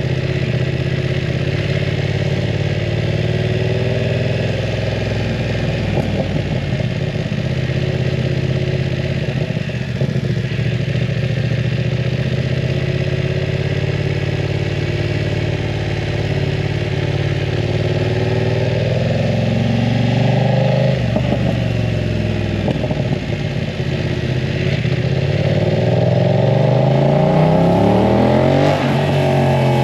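BMW F900 R parallel-twin engine running through a full aftermarket exhaust, holding a steady pitch for most of the time, wavering about twenty seconds in and rising near the end.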